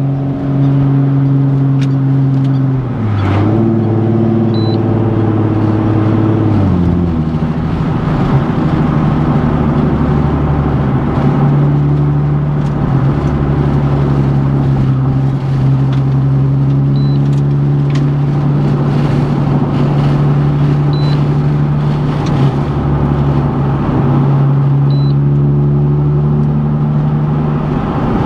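Nissan 370Z's 3.7-litre VQ37 V6 through a Tomei exhaust, droning on the move. The engine note changes pitch twice in the first seven seconds, then holds steady at an even cruising speed.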